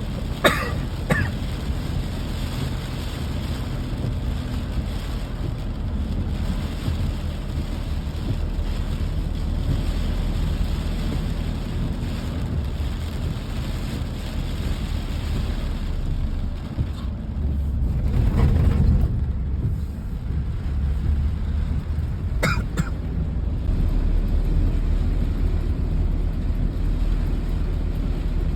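Rainy-day outdoor ambience: an even hiss over a steady low rumble, swelling briefly about two-thirds through, with a few sharp clicks near the start and again later.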